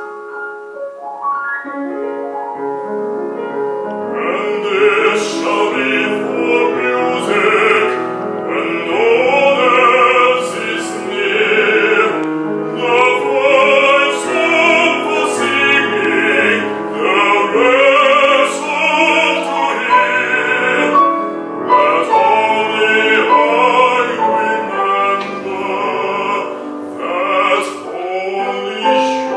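A song sung in classical, operatic style by a bass voice, with piano accompaniment.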